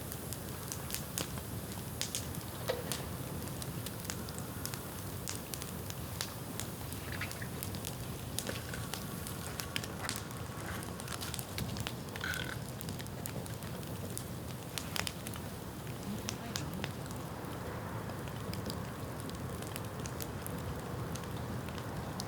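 Dry bamboo burning in an open bonfire, crackling with many scattered sharp pops over a steady low noise.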